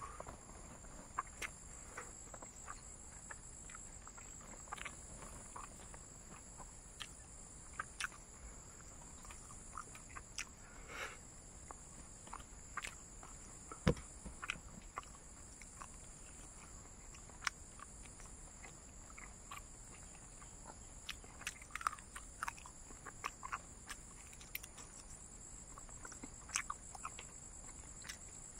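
Close-up eating sounds: irregular sharp clicks and smacks of someone chewing dried fried pork, over a steady high-pitched background tone.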